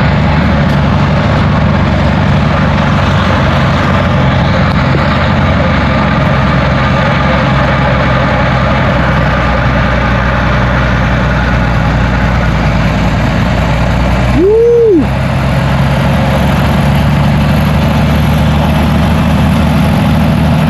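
Helicopter engine starting up and running steadily as it warms up, a loud constant drone. About fourteen seconds in, a brief tone rises and falls over it.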